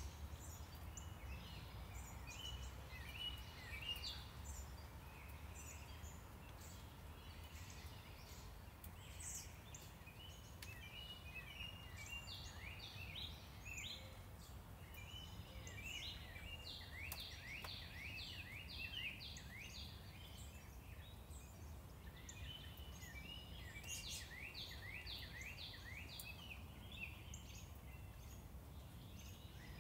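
Songbirds singing, with runs of quick repeated chirping notes every few seconds, over a low steady rumble of traffic noise.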